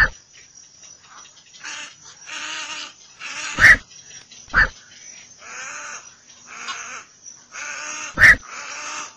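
Black-crowned night herons giving harsh, croaking 'quok' calls over and over, with four much louder sharp calls, at the very start, twice around the middle and once near the end, above a run of fainter calls.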